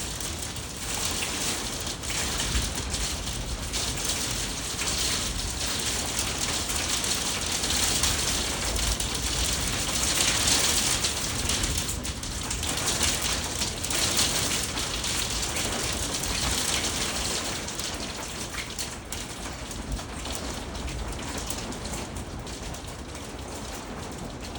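Small hail mixed with rain coming down hard, a dense continuous pattering of many small ticks. It swells about a third of the way in and eases off near the end.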